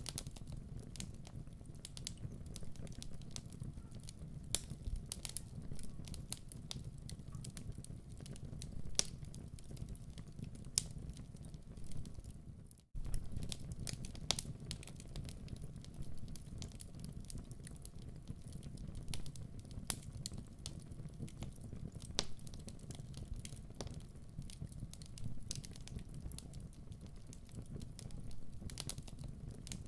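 Wood fire in a fireplace crackling, with irregular sharp pops over a steady low rumble of the flames. The sound briefly cuts out about thirteen seconds in and then resumes.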